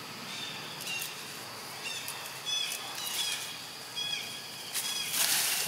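Small birds chirping: short, high, downward-sliding calls repeated about every half second over a steady outdoor hiss. Near the end comes a brief loud rustling burst.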